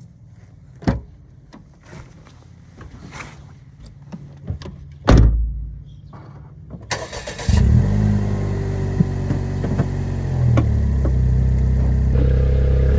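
Daihatsu Copen engine, first quieter with a couple of sharp knocks about one and five seconds in. From about seven seconds in it runs loud and steady, its pitch shifting a little.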